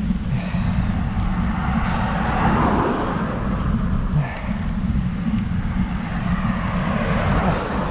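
Wind rumbling on the microphone of a camera riding along on a road bike, with a steady rush of wind and tyre noise that swells twice.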